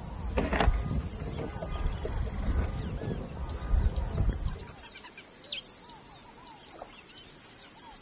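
Small birds chirping: a run of short, high chirps in the second half, the loudest near the end. Before them a low rumbling noise, and a steady high whine runs underneath throughout.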